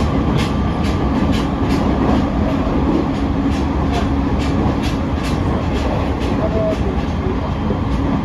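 JR E501 series electric multiple unit heard from inside its motor car MoHa E501-5 while running at speed: a steady rumble with wheels clicking over rail joints about twice a second.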